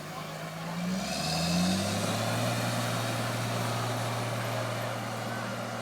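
Car engine running, its pitch wavering and rising in the first couple of seconds as it revs, then holding steady and louder, with a hissing noise that joins in about a second in.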